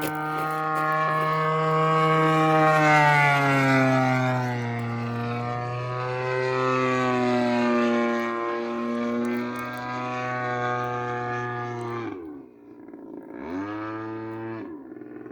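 DLE 55cc single-cylinder two-stroke gas engine of a model airplane running in flight, its note dropping in pitch as the plane passes. About twelve seconds in the engine sound stops abruptly, then returns for about a second with a rise and fall before fading.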